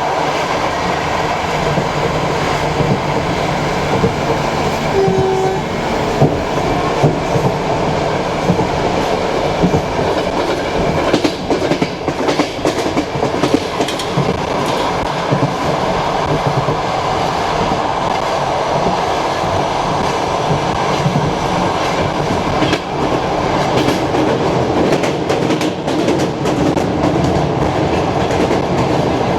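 Passenger train carriage running along the line, heard from aboard: a steady rolling rumble with the wheels clacking over rail joints.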